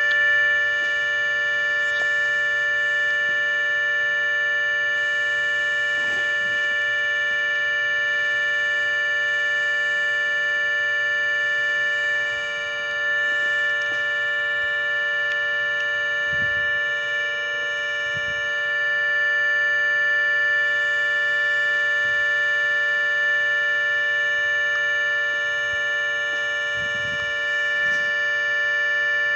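ACA Hurricane 130 outdoor warning siren at full speed, holding a steady chord of several tones without rising or falling.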